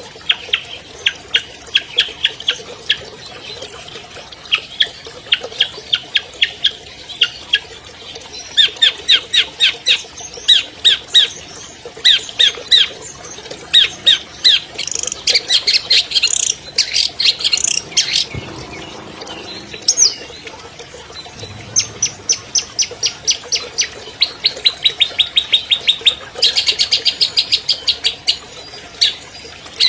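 Long-tailed shrike (cendet) singing loudly: bursts of rapid, sharp repeated notes, several a second, broken by short pauses, with a few quick trills.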